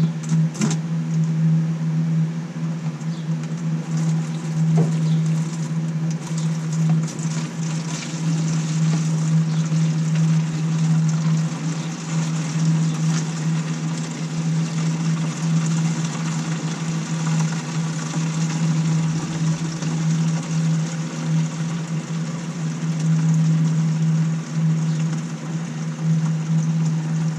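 A steady, loud mechanical hum with a few scattered clicks of handling.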